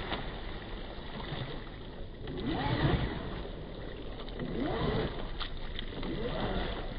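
Brushless electric motors of Traxxas Rustler VXL RC trucks whining up and falling back in a few short bursts of throttle, over the churning splash of tires through muddy water.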